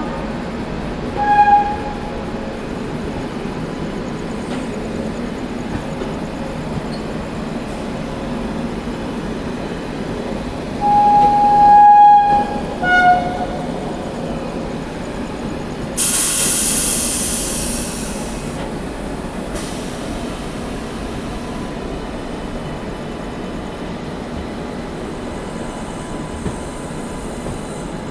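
Express passenger train running with a steady rumble. A train horn gives a short toot about a second in, a long blast around eleven seconds in, then brief toots. A loud hiss lasts about two seconds, starting around sixteen seconds in.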